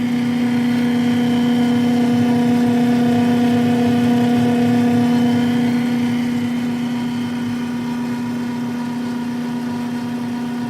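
Loud, steady humming drone from the freezer section of a GE GTH18GCDDRWW refrigerator-freezer, an abnormal noise that stops when the appliance's power is cut. The owner wonders whether ice forming in the back cavity is the cause.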